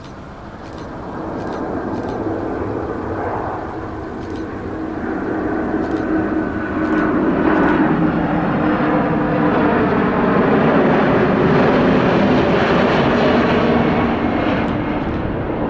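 Jet airliner passing close by. Its engine noise builds, holds loud through the middle, and eases near the end, and its steady hum drops slightly in pitch as it goes by.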